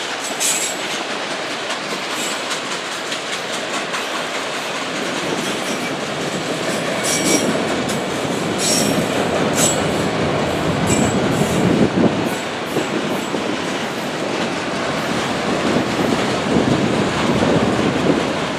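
Norfolk Southern freight train cars rolling past, their wheels running steadily on the rails, with a few brief high wheel squeals now and then.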